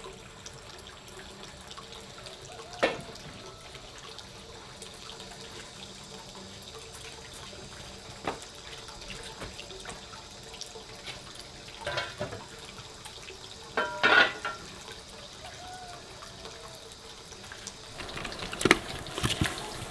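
Water running and splashing, as at a sink or basin during washing, with a few sharp knocks and clatters, the loudest about three seconds in, about fourteen seconds in and near the end.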